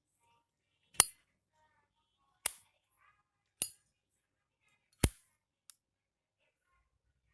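Zippo lighter lid snapping open and shut on its cam spring: four sharp metallic clicks about a second to a second and a half apart, then a faint fifth click.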